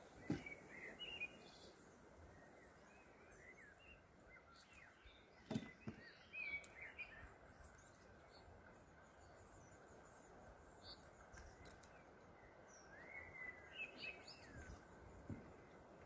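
Faint birdsong over quiet outdoor ambience: scattered chirps and short whistled calls from small birds, with a soft knock near the start and another about five and a half seconds in.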